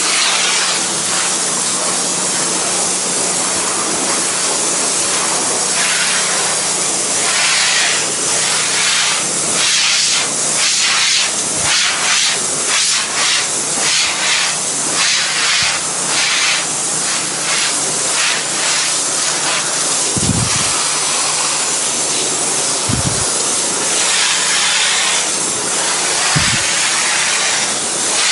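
Low-pressure spray from a pressure washer wand hitting a painted wood deck: a steady, loud hiss that surges in quick pulses through the middle as the spray sweeps back and forth, over a low steady hum. Three brief low thumps come in the last third.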